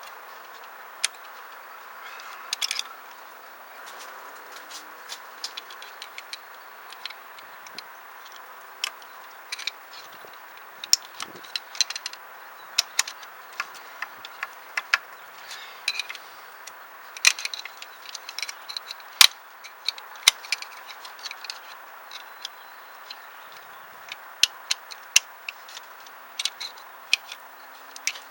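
Irregular sharp metallic clicks and taps from hand work on an A/C compressor as its clutch coil is fitted back on and its retaining clip worked into place, over a steady background hiss.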